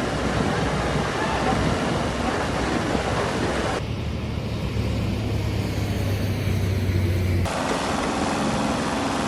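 Heavy vehicle engine noise from several spliced clips. About four seconds in the sound changes abruptly to a steady low engine drone, which cuts off sharply a few seconds later.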